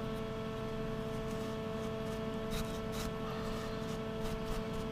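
Workshop machine-tool motor running steadily with a steady hum, a few faint light clicks over it.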